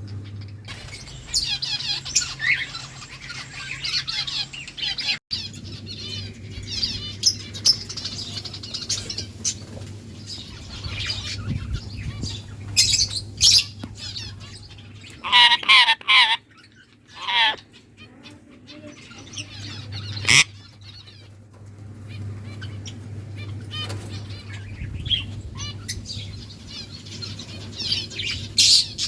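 Small pet parrots chirping and chattering continuously, with several loud, harsh squawks in the middle, over a steady low hum.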